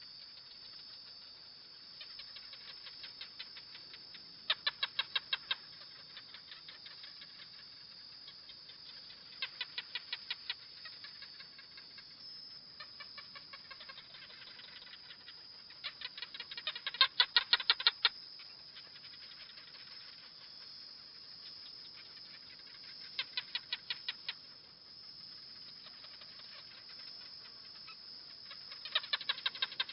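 A gecko calling: several short trains of rapid, sharp clicking chirps, the loudest about two thirds of the way through, over a steady high hiss.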